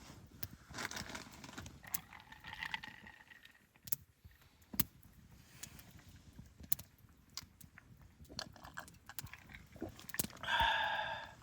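Wood fire crackling, with irregular sharp ticks and pops and some brief scraping. Near the end a short pitched call with several overtones is the loudest sound.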